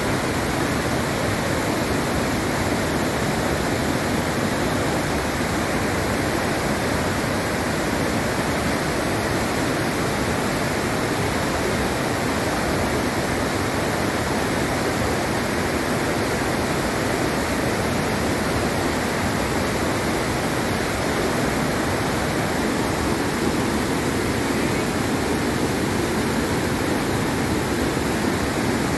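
Waterfall roaring: a steady, dense rush of falling water with no breaks.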